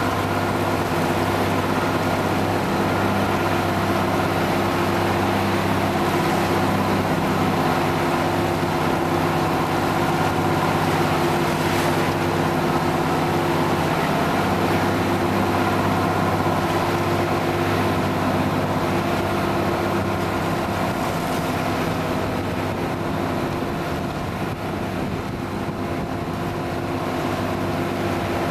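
A motorboat's engine running steadily, a constant drone with rushing water and air noise behind it.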